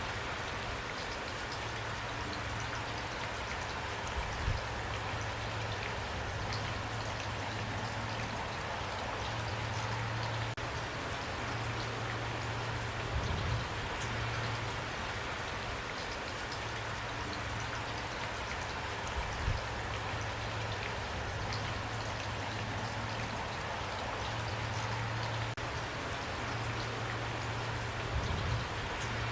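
Steady rain falling on a surface, with a low hum that comes and goes and a few louder single drops or knocks.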